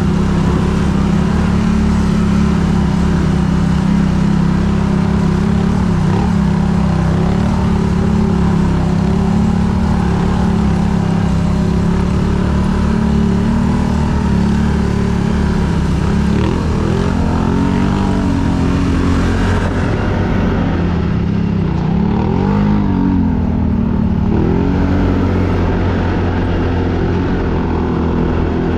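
ATV engine running steadily, its pitch rising and falling several times in the second half as the throttle is worked.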